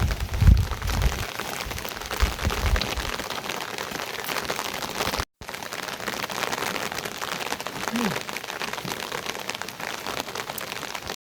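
Steady rain falling, a dense patter of drops, with some low rumbling in the first second or so. The sound cuts out completely for a moment about five seconds in.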